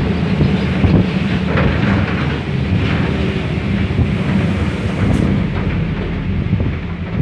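Wind buffeting the microphone: a loud, steady low rumble and rush.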